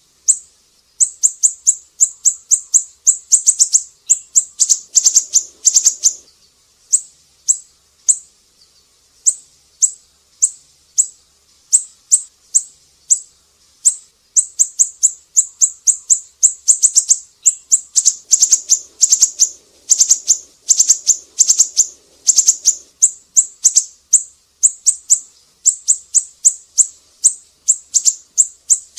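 Siri-siri bird singing: fast runs of short, sharp, high-pitched chirps, several a second, broken by brief pauses.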